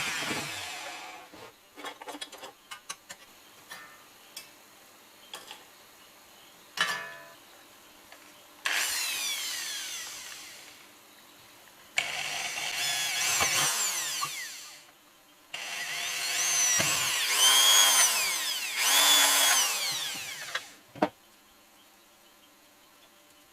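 A handheld power tool run in several short bursts. Its whine slides down as it spins down, and in the last long run rises and falls as it is revved. Scattered light clicks and scrapes come before it, and a sharp click follows near the end.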